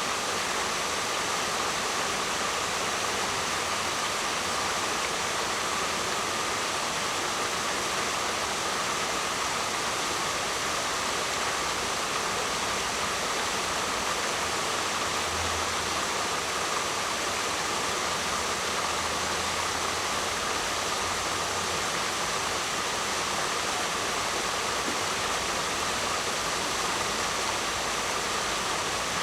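Waterfall rushing in a steady, unbroken roar of falling water, with a faint low hum for several seconds around the middle.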